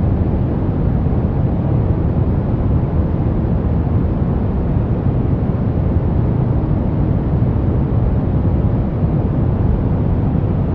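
Steady brown noise: an even, deep rumbling hiss, strongest in the bass and fading toward the treble, with no change in level.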